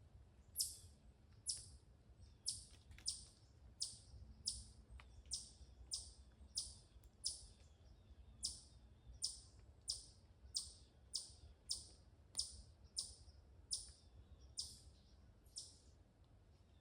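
A bird calling over and over with a short, high note that drops steeply in pitch, nearly twice a second, over a faint low rumble of background noise.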